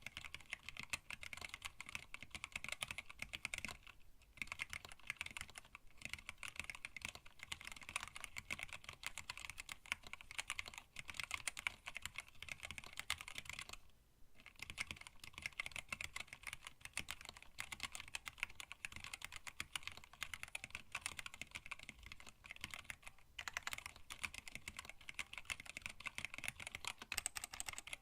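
Steady fast typing on a hand-wired split mechanical keyboard with Tealios linear switches, blank PBT keycaps and an acrylic case. The typing stops briefly three times.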